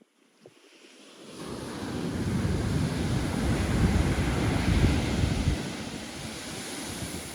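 Pacific surf: a wave swelling and breaking, building over a few seconds and then easing off as it washes out, with wind rumbling on the microphone.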